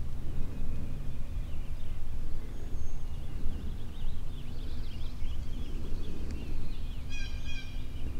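Outdoor ambience of a low, steady rumble like wind on the microphone, with small songbirds chirping and twittering. Near the end comes a brief, rapid run of high, pitched notes.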